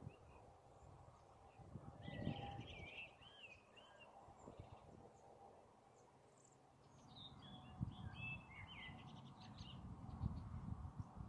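A songbird singing warbling phrases, in two spells a few seconds apart, over faint low rumbles as a thunderstorm approaches.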